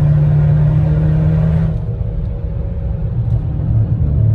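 Turbocharged Buick engine heard from inside the cabin, pulling under acceleration with a steady, loud engine note. About two seconds in the note drops away as the throttle eases, and it comes back near the end.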